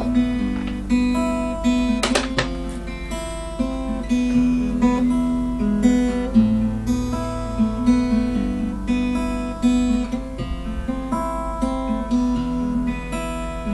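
Acoustic guitar playing a slow picked melody, with new notes about every half second and low bass notes underneath. A short click sounds about two seconds in.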